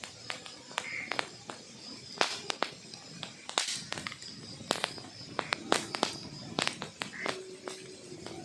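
Wood fire crackling: burning logs giving off irregular sharp pops and snaps, several a second, over a soft hiss.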